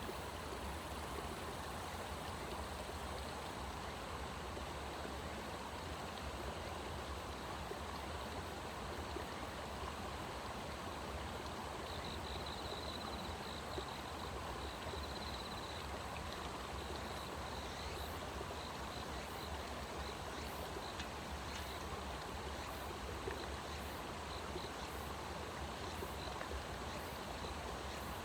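Steady rushing of flowing stream water. Partway through, a faint high trill joins it, and later faint high ticks come about once a second.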